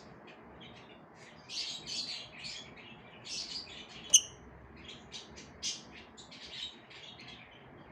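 Several lovebirds chirping and twittering in short, overlapping bursts, with one sharp, loud call about four seconds in.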